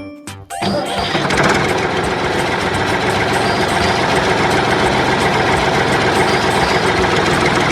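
A vehicle engine starts about half a second in, then runs loudly and steadily, and cuts off suddenly at the end.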